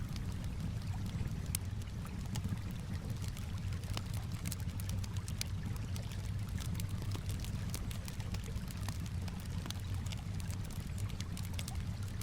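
Campfire crackling with frequent sharp, irregular pops, over a steady low wash of calm water lapping.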